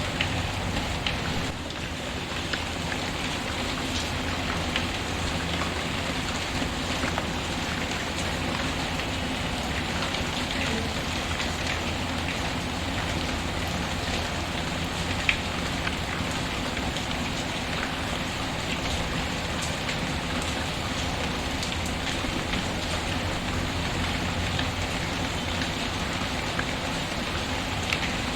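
Steady rain falling on a surface, mixed with the small scattered crackles and pops of a wood fire burning in a fireplace, one sharper pop about halfway through.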